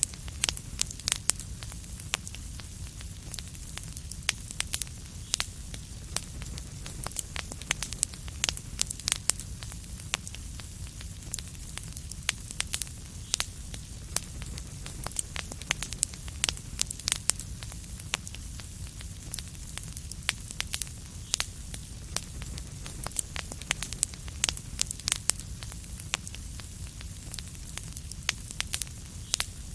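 Wood fire burning in a fireplace, with a steady low rumble and frequent sharp crackles and pops.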